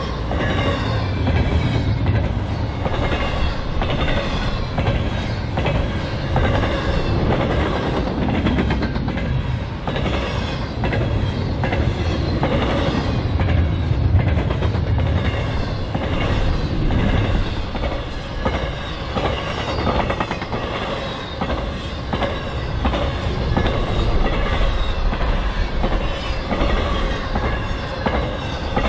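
Intermodal freight cars carrying highway trailers rolling past at speed, steel wheels clicking in a steady repeating rhythm over the rail joints, with the continuous rumble of the passing cars.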